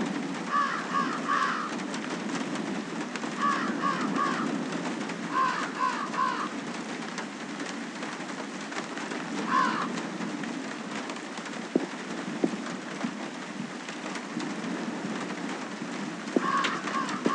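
Bird calls in short phrases of a few quick notes, repeating every couple of seconds over a steady low rushing noise, with a few sharp clicks in the second half.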